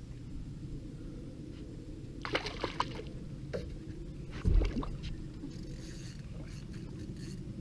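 Water sloshing against a small boat's hull, with a few sharp clicks about two to three seconds in and a dull thump on the boat about halfway through.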